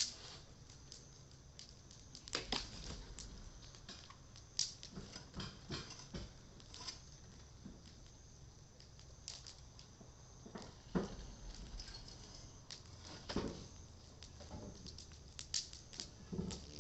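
Japanese cedar (sugi) wood fire crackling, with irregular sharp pops a second or so apart.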